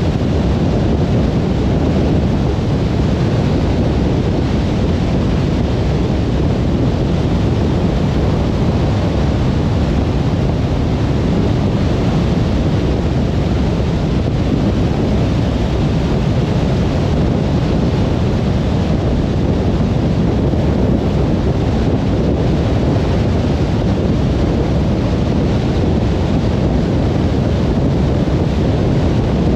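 Steady low rumble of a car driving on a motorway: an even mix of tyre and wind noise with no changes.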